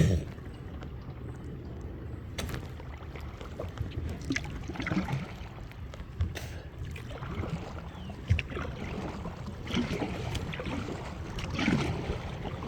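Kayak paddling: water splashing off the paddle blades at irregular strokes, with a few sharp knocks, over a steady low rumble.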